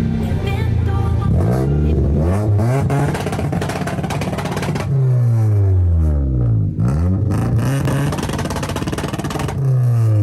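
Toyota Corolla engine revved repeatedly, its pitch climbing and dropping several times, with sharp pops from the exhaust between revs.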